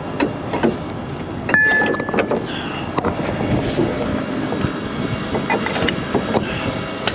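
Heavy truck diesel engine running steadily under scattered metallic clanks and knocks, with one sharp ringing clank about a second and a half in.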